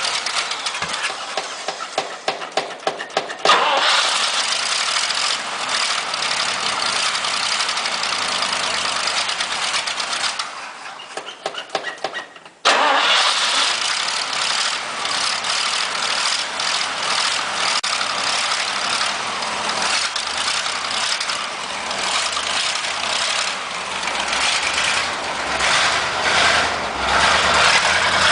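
Cold start of a 1977 International Loadstar 1700's 345 cubic-inch gasoline V8: the starter cranks with even pulsing strokes for a few seconds until the engine catches and runs. About ten seconds in it falters and sputters, then runs strongly again from about thirteen seconds in.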